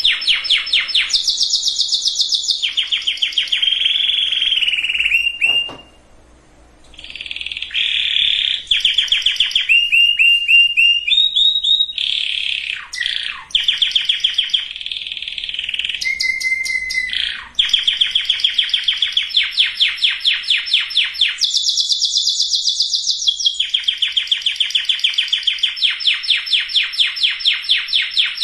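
Canary singing a long song of fast trills, each a run of rapid repeated notes held for a second or two before switching to another, with a few sliding whistled notes and a short pause about six seconds in.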